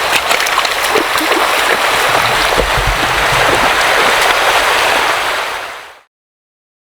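Steady rushing water with scattered small clicks and splashes, fading out about six seconds in.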